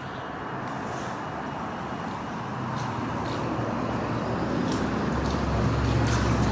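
Road traffic noise growing steadily louder, with a low rumble building near the end.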